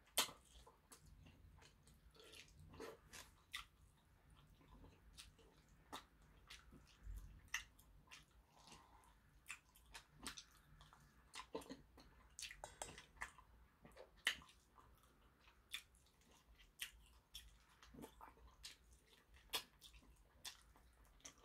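Quiet mouth sounds of someone chewing and gnawing meat off a chicken drumstick: irregular soft smacks and clicks.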